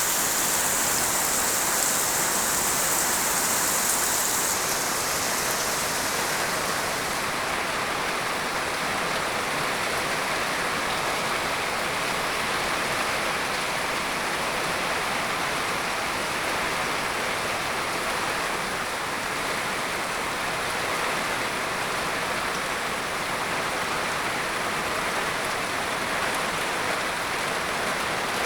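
Steady rain falling, an even wash of noise, with an extra bright high hiss for the first few seconds.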